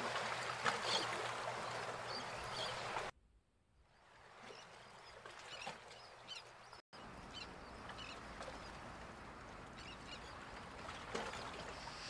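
Faint background ambience with scattered short, high bird chirps. The sound cuts out for most of a second about three seconds in, and again for an instant near seven seconds.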